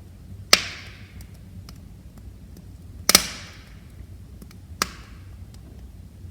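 Wood fire crackling, with three sharp pops from the burning logs (the loudest a double crack about three seconds in) and a few faint ticks over a low steady rumble of the flames.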